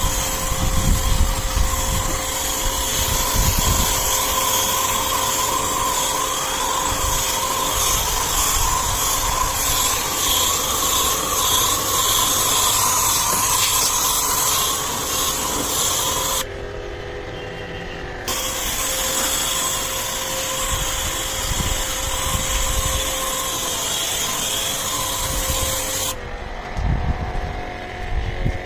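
Pressure-washer jet pump running with its high-pressure water jet spraying in a steady hiss. The spray stops for about two seconds past the middle and again near the end.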